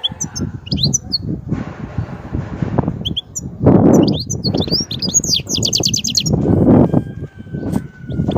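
European goldfinch singing a twittering song of quick high chirps and warbles, with a fast trill about midway. Under it runs an irregular low rustling and thumping noise, louder than the song.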